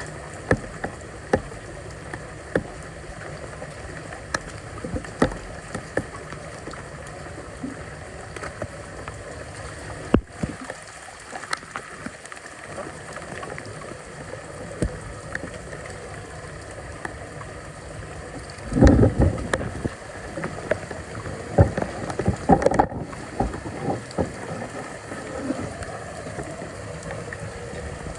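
Floodwater running and gurgling, with scattered knocks and scrapes throughout and a louder clatter about two-thirds of the way in.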